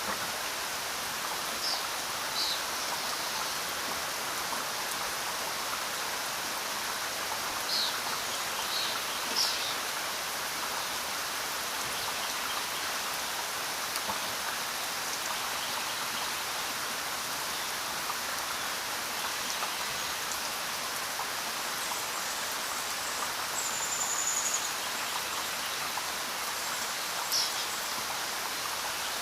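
Steady rain falling on a forest road and foliage, an even hiss of drops. A few brief high chirps come through it, with a short trill a little past the middle, typical of a bird calling in the rain.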